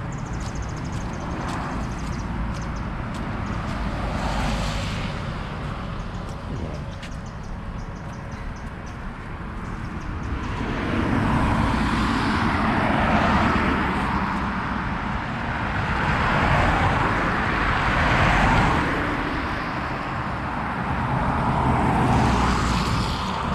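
Street traffic: cars passing on a wet road, their tyre rush swelling and fading about three times in the second half.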